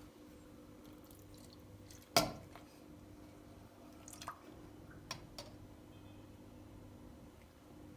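A few sparse, sharp small taps or clicks, the loudest about two seconds in and three fainter ones later, over a faint steady hum.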